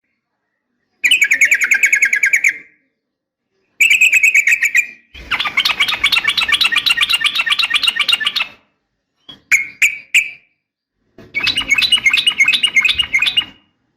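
Yellow-vented bulbul (trucukan) giving long, fast chattering trills of repeated chirps, said to be a female calling for a male. The trills come in five runs of one to three seconds each, broken by abrupt gaps of silence.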